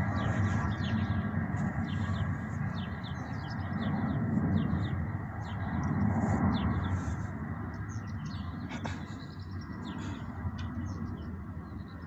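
Small birds chirping repeatedly in short, quick notes over a low rumble that fades toward the end.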